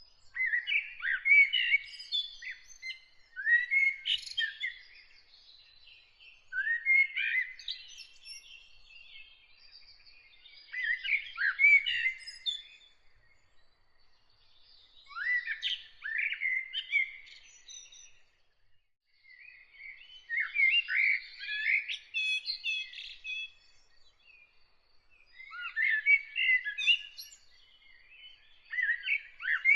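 A songbird singing short warbled phrases, one every few seconds, with fainter high chirping from another bird behind it.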